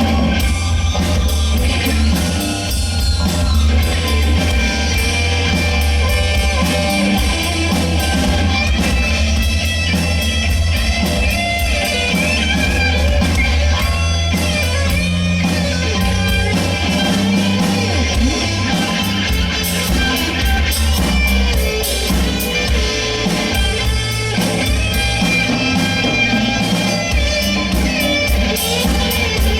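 A rock band playing live: guitar, bass and drum kit with a steady beat.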